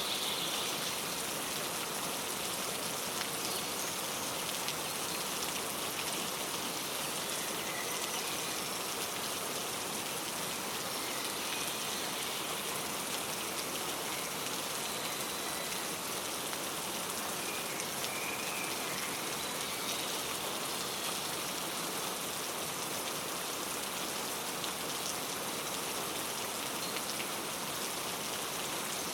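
Steady rain falling, with a few faint, brief bird chirps over it now and then.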